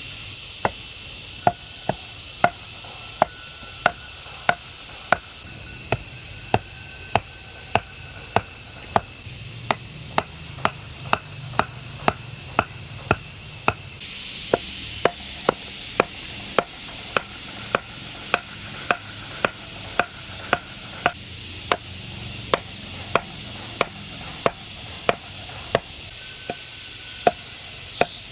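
Steady rhythmic chopping, about one and a half strokes a second, each a sharp knock with a short ring, over a steady high hiss.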